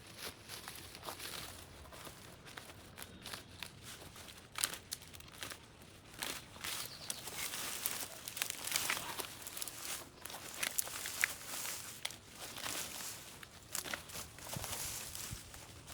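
Dry vegetation rustling and crackling, with irregular sharp snaps and tearing, as overgrown vines and brush are handled and pulled away.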